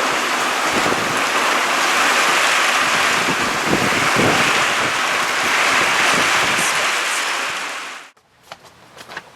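Storm noise of heavy rain and wind, a loud steady hiss with gusty rumbles on the microphone. It cuts off abruptly about eight seconds in, leaving a few faint taps.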